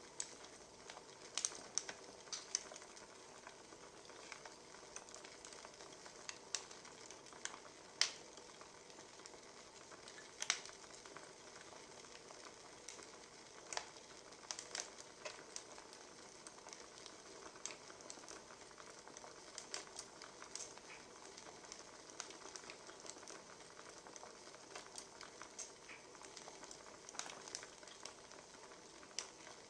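Wood fire crackling: a quiet steady hiss with irregular sharp pops and snaps.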